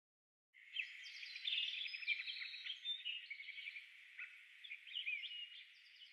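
Small birds singing, several overlapping songs of quick trills and short chirps that rise and fall, starting about half a second in.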